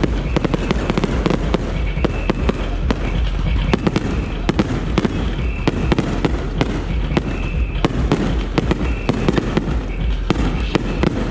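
Aerial fireworks display bursting in rapid succession: many sharp bangs and crackles every second over a continuous low rumble.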